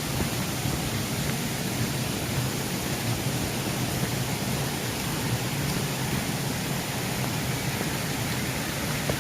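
Mountain stream rushing over rocks, a steady wash of running water.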